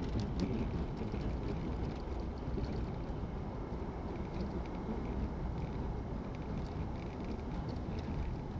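Steady road noise of a car being driven, a low, even rumble of tyres and engine with faint light ticks scattered through it.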